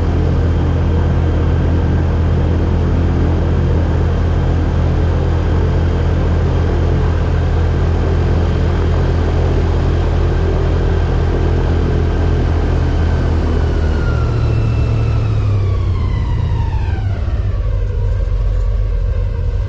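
Airboat engine and propeller running at a steady cruising speed, then throttling back about fourteen seconds in, the pitch falling as the boat slows.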